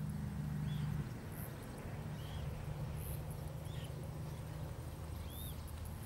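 A steady low drone with four short, high, arched bird chirps about a second or more apart, and brief very high buzzes in between.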